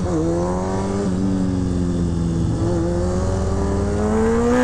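Kawasaki ZX-6R 636 inline-four sport-bike engine accelerating through the gears. It shifts up just at the start, then its pitch climbs steadily in the next gear, with another shift at the very end.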